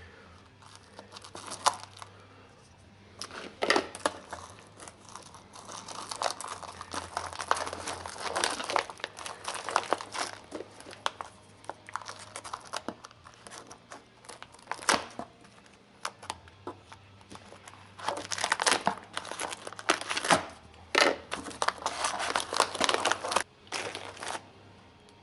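Packaging being unwrapped by hand, crinkling and tearing in irregular bursts with short pauses between them.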